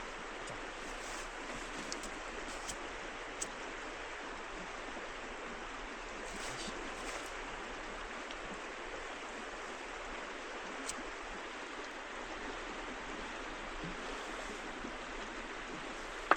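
River water flowing steadily, an even rushing noise with a few faint ticks.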